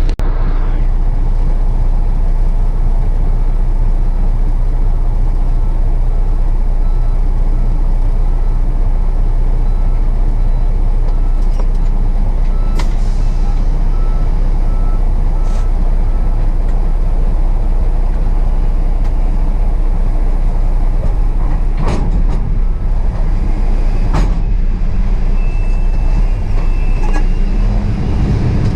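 Diesel truck engine idling steadily, a low, even rumble. Faint intermittent beeping comes in twice, and there are a few sharp clicks.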